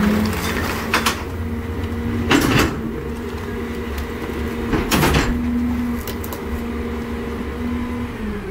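NewWay rear loader garbage truck running with a steady low rumble and hum, with three short sharp noises about 1, 2.5 and 5 seconds in.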